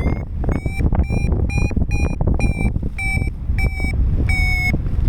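Paragliding variometer beeping its climb tone, short high beeps about twice a second with a few longer ones near the end, signalling the glider is rising. Wind rushes loudly over the microphone underneath.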